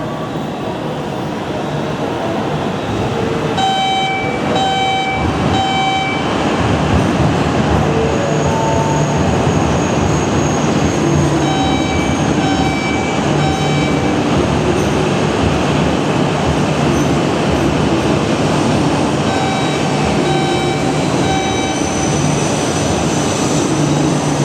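Tohoku Shinkansen train pulling into a station platform: a steady rushing rumble that grows louder over the first few seconds. Short runs of electronic beeps come and go three times, and a high whine sets in near the end.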